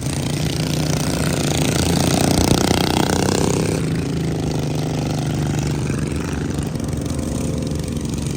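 Racing riding-lawn-mower engines running steadily, swelling louder to a peak about two and a half seconds in, then easing back a little.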